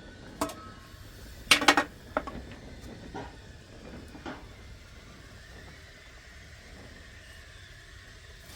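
A few sharp knocks and clinks of hard objects, the loudest a quick pair about a second and a half in, some with a brief ring; after about four and a half seconds only a faint steady background remains.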